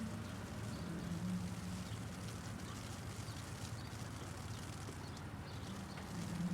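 Hail ticking and pattering over a low, steady hum of city traffic engines, the hum swelling briefly at the start and again near the end.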